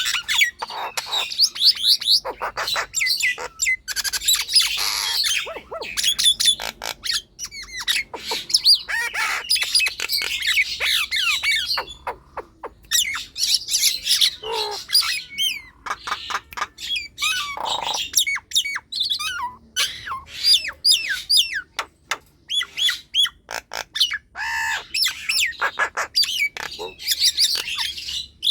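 Nias hill myna singing energetically: a rapid, near-continuous run of loud squawks, whistles and clicking chatter, broken by a couple of short pauses.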